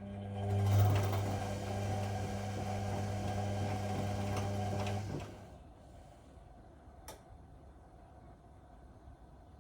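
Whirlpool Indiana 1400 washing machine running with a steady hum and a rushing wash for about five seconds, then stopping. A single click comes about seven seconds in.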